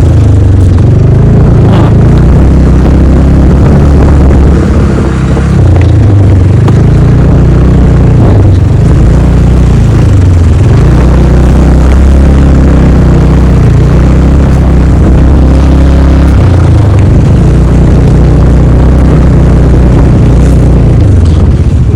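Engine of a moving road vehicle running continuously, its pitch rising and falling every few seconds as the throttle changes.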